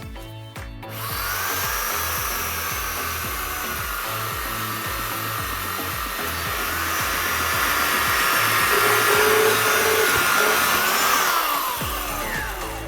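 Electric power sander running on wood, a steady rasping hiss with a motor whine, starting about a second in; the whine falls as the motor winds down after switch-off near the end.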